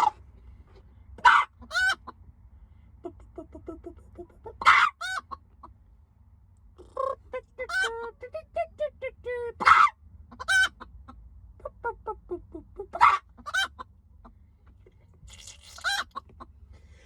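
A chicken squawking loudly about five times, with runs of softer clucking between the squawks.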